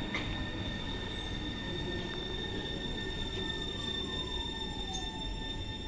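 Thessaloniki Metro train coming into the station and slowing, its electric drive whine falling steadily in pitch over a steady rumble, with steady high-pitched tones above.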